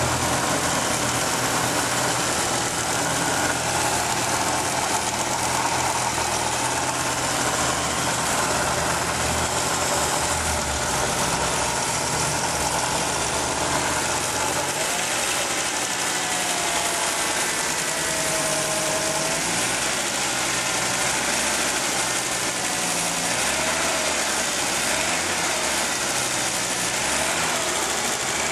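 1987 Audi 4000S five-cylinder engine idling steadily, an engine with a bad intermittent lifter tick that comes and goes. A faint wavering whistle comes and goes in the second half.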